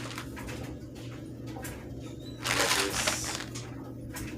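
Handling noises from unboxing parts: faint clicks and taps, then a loud rustle or crinkle of packaging lasting just under a second a little past halfway, over a steady low hum.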